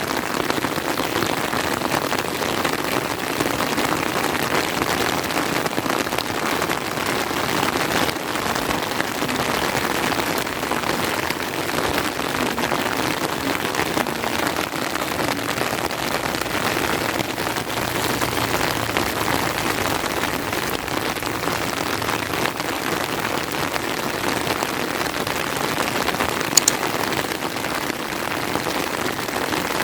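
Steady, dense rain falling and pattering on surfaces, with one sharp click near the end.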